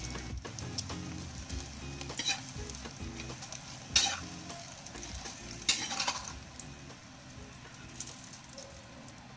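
Egg-and-chayote omelette sizzling in hot oil in a metal wok. A metal spatula scrapes against the wok several times, sharpest about four seconds in, and the sizzle dies down near the end.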